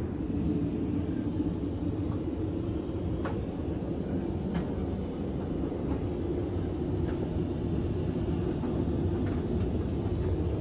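Steady low rumble inside the cabin of a Boeing 787-9 airliner in motion, with a few faint clicks.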